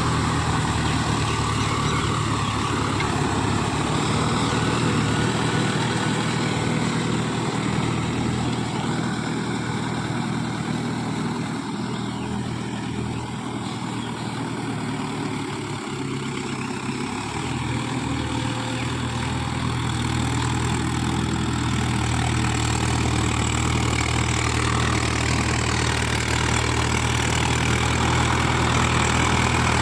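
Mahindra Yuvo Tech+ 575 DI tractor's four-cylinder diesel engine running steadily. It eases off a little midway, then picks back up.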